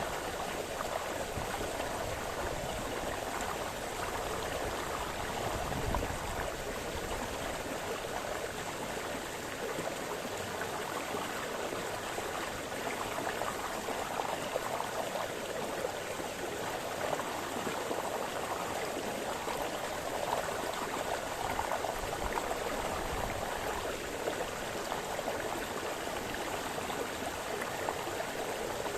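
A small forest brook splashing and babbling over stones: a steady, continuous rush of running water.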